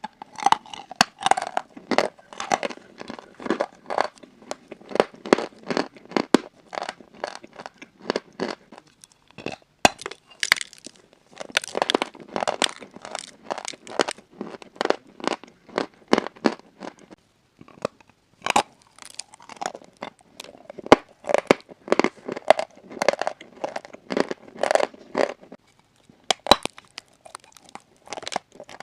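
Pieces of crunchy chalk being crushed close to the microphone, a rapid run of crisp crunches and crackles with a short break a little past halfway.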